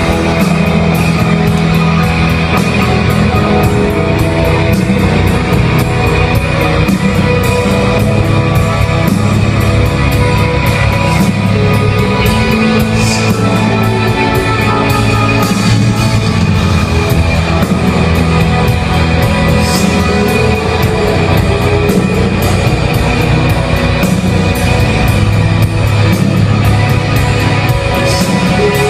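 Live rock band playing loud, with distorted electric guitar and drums in a dense, droning instrumental passage.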